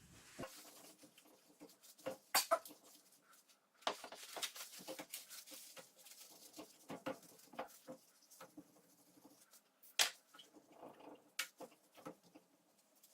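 Paper towels rubbing and rustling against fireplace door glass as the cleaning foam and loosened soot are wiped off. Irregular scratchy rustling, with a few sharp clicks, the loudest about two seconds in and about ten seconds in.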